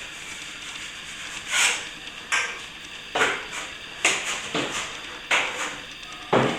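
Metal plastering tools scraping and knocking, about one short stroke a second, as plaster is worked.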